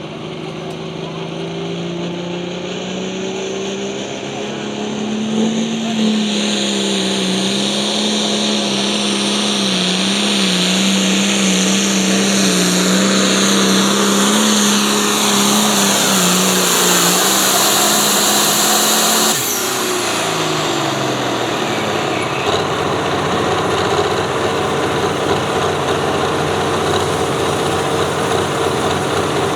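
Pulling vehicle's engine running hard at a steady high rev, getting louder for several seconds. About two-thirds of the way through it cuts off suddenly and winds down. After that a lighter, higher-pitched engine keeps running steadily.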